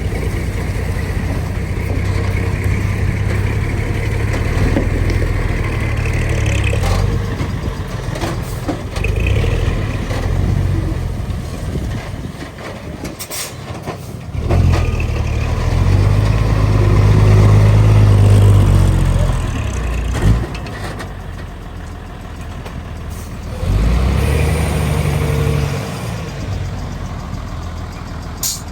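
Heavy diesel earthmoving machinery working: the engines of a bulldozer and dump trucks run with a steady low rumble. Twice the engine note swells louder under load, once for several seconds midway and again more briefly later. A few short sharp sounds stand out, one about halfway and one near the end.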